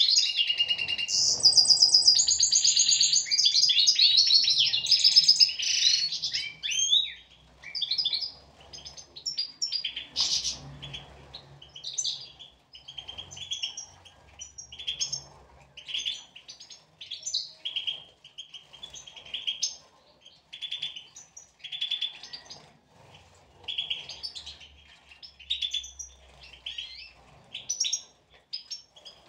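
European goldfinches singing: a loud, continuous twittering song for the first six seconds or so, then shorter chirping phrases repeating about once a second.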